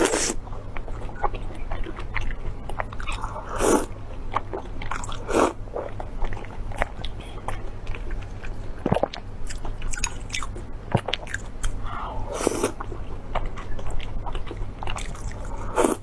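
Close-miked eating: bites and crunchy chewing with many small mouth clicks, and louder crunching bites about four, five and a half and twelve and a half seconds in.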